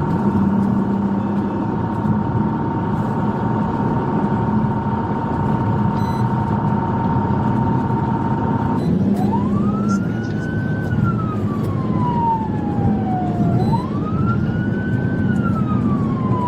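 Police siren over heavy vehicle and road noise: a steady high tone for about the first nine seconds, then a slow wail rising and falling about every four seconds.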